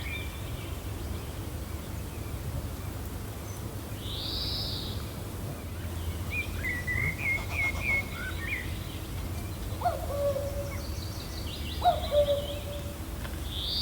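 Several birds calling over a low, steady wind rumble. An arching high whistled note comes a few seconds in and again at the very end, a quick run of chirps falls about halfway through, and two lower calls come near the end.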